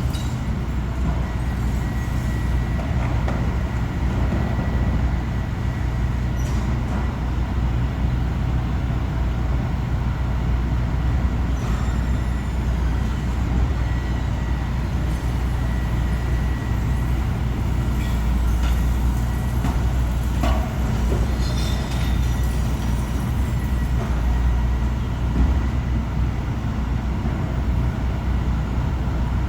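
Recycling truck's engine running steadily with a low drone, a few short knocks and rattles scattered through.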